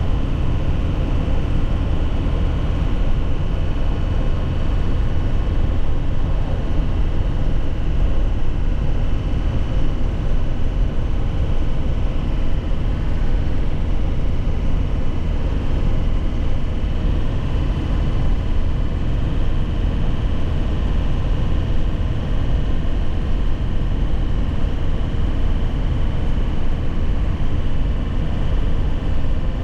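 2001 Nissan Cabstar light truck under way, its engine running steadily with road noise and no clear gear change.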